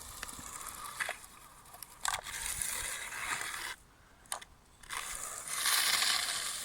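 Radio-controlled Kyosho Blizzard snowcat's electric drive running, gears whirring and tracks crunching through wet snow, with a few sharp clicks; the owner finds it lacking power on the climb. The sound drops out for about a second midway, then comes back louder.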